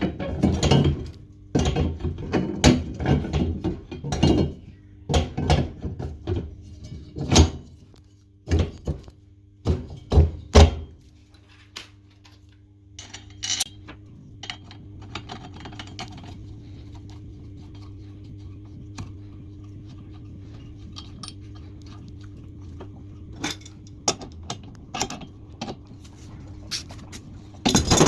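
Repeated knocks and clatter of hard parts and tools being handled during a washing-machine repair, busiest in the first ten seconds and again near the end, over a steady low hum.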